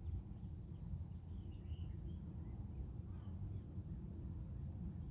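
Several small birds chirping faintly and intermittently over a steady low background rumble.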